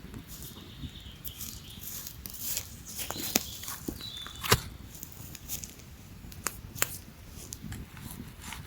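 Rustling and scuffing with several sharp clicks or snaps, the loudest about four and a half seconds in.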